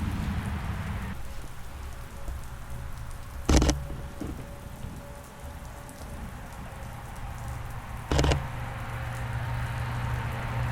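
Steady rain falling, with two sharp camera shutter clicks about four and a half seconds apart.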